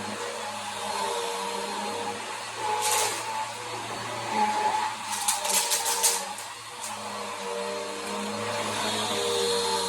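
Bissell Power Force vacuum cleaner running steadily with a motor hum and hiss. There is a sharp click about three seconds in and a quick run of clicks and rattles around five to six seconds in, as debris is sucked up from the basement floor.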